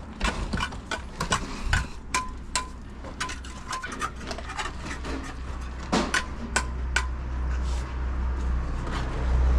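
Irregular knocks and metallic clinks, a few ringing briefly, over a low engine rumble that grows louder in the second half.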